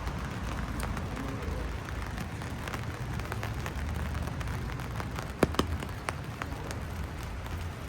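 Steady rain falling, with many scattered drop ticks and two sharper taps about five and a half seconds in, over a low rumble.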